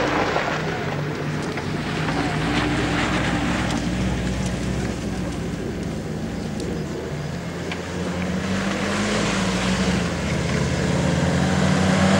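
A 4x4's engine running as it drives over rough grassland toward the listener, getting louder as it comes closer. The engine note rises for a while about two-thirds of the way through.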